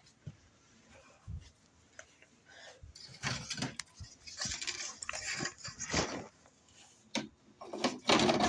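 Handling noises: scattered light clicks and knocks with bouts of rustling, growing denser in the second half and loudest near the end.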